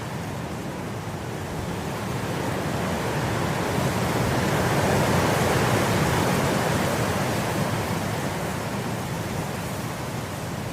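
Wind blowing through grass, a gust that builds for about five seconds and then dies back down.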